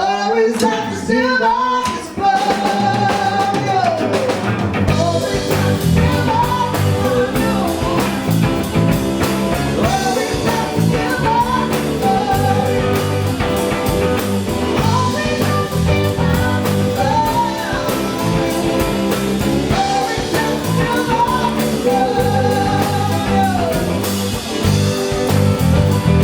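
A live band playing a blues-rock song: a singer over guitar and drums.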